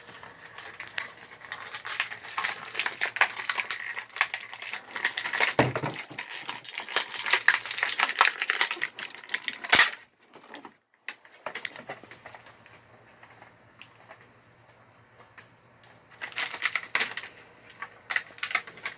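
Toy packaging being torn open by hand: rapid crackling and clicking of plastic and cardboard, with one sharp snap about ten seconds in, a quieter stretch, and more crackling near the end.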